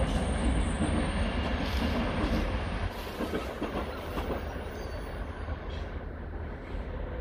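Train running on the rails: a steady rolling rumble with a faint high wheel squeal, easing a little after about three seconds.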